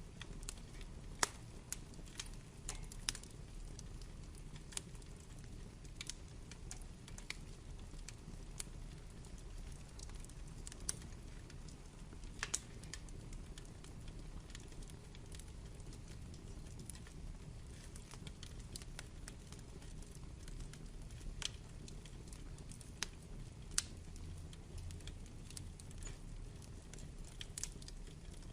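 Burning wood fire crackling: irregular sharp pops and snaps of burning logs, a few louder than the rest, over the low steady rumble of the flames.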